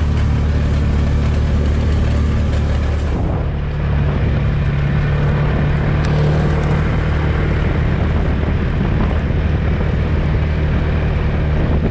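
Polaris RTV utility vehicle engine running steadily as it drives across a field, with a brief dip in level about three seconds in.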